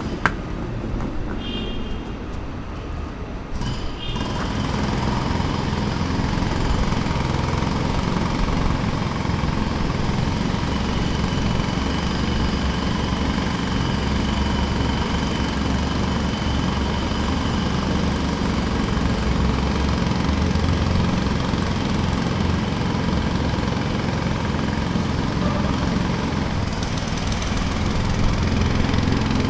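Jackhammer hammering continuously in rapid blows, with an engine running steadily underneath; it grows louder about four seconds in.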